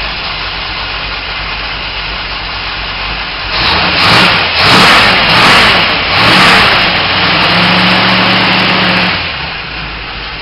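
Small-block Chevy 400 V8 in a 1948 Ford Anglia idling, then blipped up three times and held at a higher rev for a moment before dropping back to idle, with the engine still cold after sitting.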